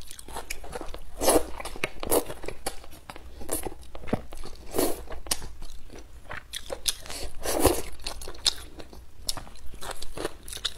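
Close-miked chewing and mouth sounds of a person eating thick Xinjiang-style stir-fried rice noodles: a quick run of wet clicks and smacks, with a few louder ones.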